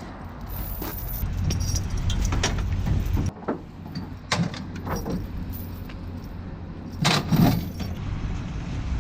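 A steel tow chain clinking and rattling in several separate clanks as it is gathered up, the loudest near the end, over a steady low rumble.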